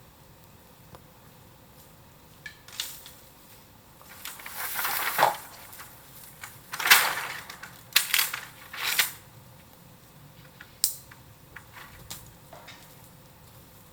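Bamboo on a bonfire crackling and snapping irregularly. A rustling swell builds a few seconds in and ends in a sharp crack, followed by several loud snaps about a second apart and one more crack later.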